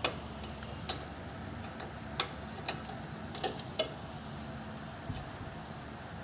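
Irregular sharp metal clicks and taps from hand tools, about seven over a few seconds, as a wrench works the steel brake-line fitting on the rear wheel cylinder.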